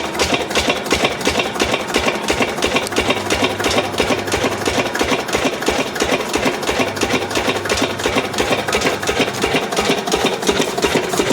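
Lister 8 HP single-cylinder diesel engine running steadily with an even, rapid beat.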